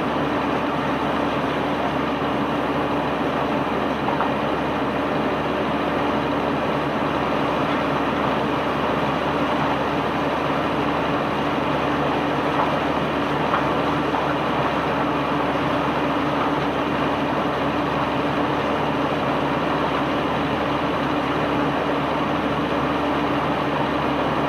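Unloading machinery running steadily: a constant engine hum under an even rushing noise that does not change.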